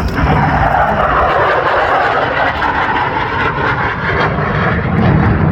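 F-16A fighter jet's engine, a loud jet roar that comes in sharply at the start and eases to a deeper rumble about four seconds in, as the jet passes.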